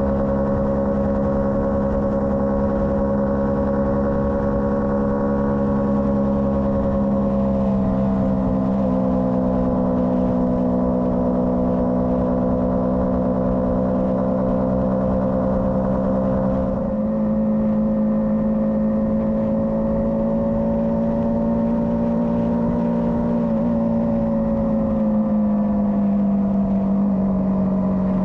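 Motorcycle engine running steadily under way, its pitch easing down slowly and rising again. About seventeen seconds in there is a short dip in level and a sudden step in pitch.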